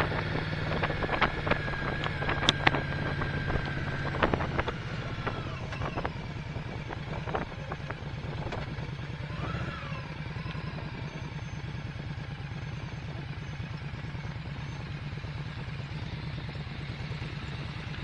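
Motorcycle engine running steadily while under way, its note stepping down a little about four seconds in. A few sharp clicks or knocks come in the first few seconds.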